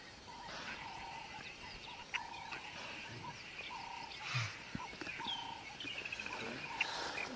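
Birds calling in open grassland: a run of short, level whistled notes repeated every half second or so, with quick high trills between them.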